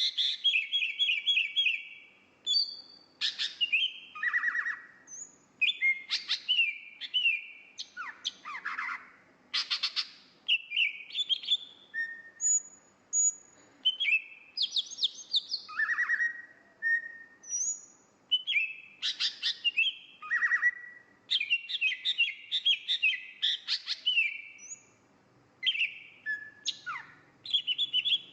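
Oriental magpie-robin (kacer) singing: a varied string of whistled phrases, rapid note runs and short sliding notes, separated by brief pauses.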